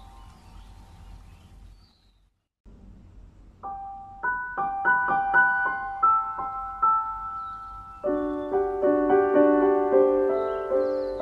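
Background piano music: a soft passage fades to a brief near-silent gap about two seconds in, then a new piano piece begins with separate high notes, joined by lower chords about eight seconds in.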